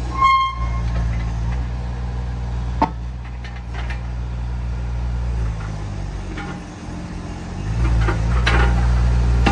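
Mini excavator's diesel engine running steadily. There is a brief ringing tone just after the start and a sharp knock near three seconds. The engine dips around two-thirds of the way through, then runs louder near the end.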